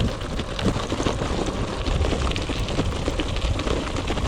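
Gravel bike tyres rolling over a rough, rocky gravel track, crunching and rattling with a rapid patter of small knocks, over a steady low rumble of wind on the chest-mounted microphone.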